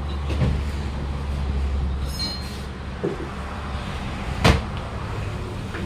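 Work noise during a truck tyre change: a steady low hum that stops about two seconds in, a brief high squeak, and a few sharp metal knocks, the loudest about four and a half seconds in.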